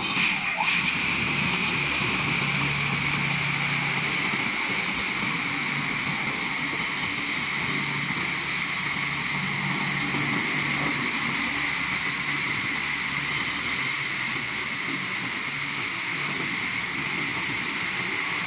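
Single-arm touchless car wash machine running, its high-pressure water jets hissing steadily with a low pump hum underneath. The sound comes up to full level within the first second.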